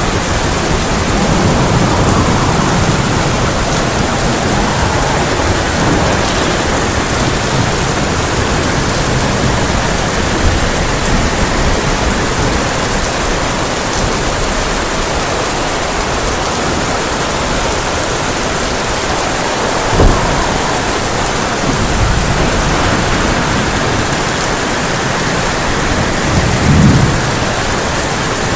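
Heavy rain drumming steadily on a tin roof, with low rolls of thunder near the start and near the end and a sharp crack about twenty seconds in.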